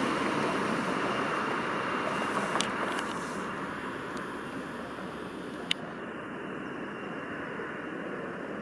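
DB Class 425 electric multiple unit receding after passing, its rolling noise fading steadily, with a faint steady high tone above it. A single sharp click about six seconds in.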